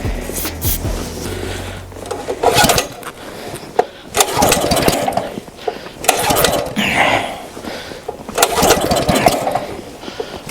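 Small gas engine on a log splitter being pull-started cold in 10-degree weather on starting fluid: about four pulls roughly two seconds apart, each cranking it over briefly.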